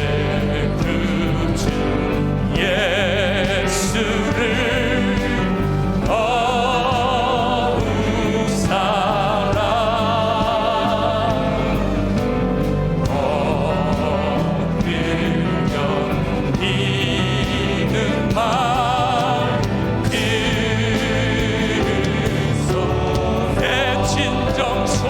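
Church praise band and singers performing a Korean worship song: voices singing phrases of a few seconds with a wide vibrato over a continuous accompaniment of piano, synthesizer, bass, electric guitar and drums.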